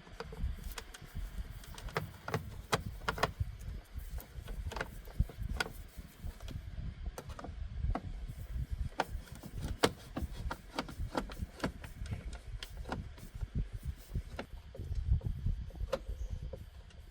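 Irregular clicks and knocks, a few a second, over a steady low rumble.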